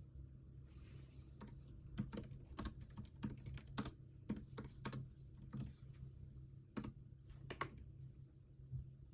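Typing on a computer keyboard: irregular runs of keystrokes, starting about a second and a half in and stopping about a second before the end, over a low steady hum.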